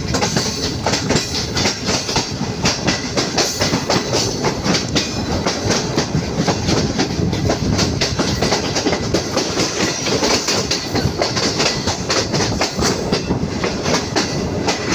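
Passenger train wheels clattering rhythmically over rail joints and points, a dense run of clicks over a steady rumble, as the express runs through a station loop line at speed.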